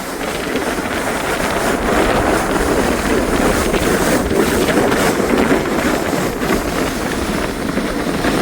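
Kayak hull sliding and scraping down a snowy slope: a steady, rough rushing noise with scattered small knocks, and wind buffeting the microphone.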